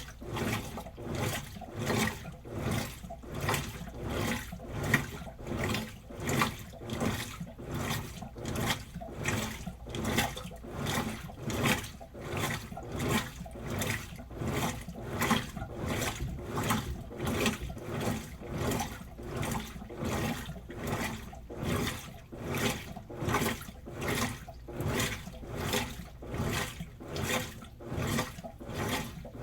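Washing machine mid-cycle, water and clothes sloshing in the drum in even, rhythmic surges about three every two seconds, over a steady low motor hum.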